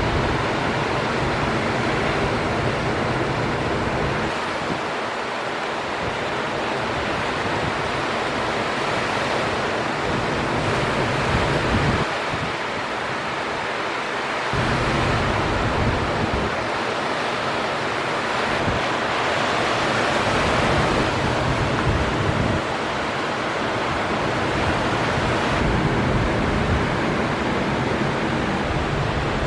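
Ocean surf breaking, a steady wash of wave noise, with wind rumbling on the microphone that comes and goes.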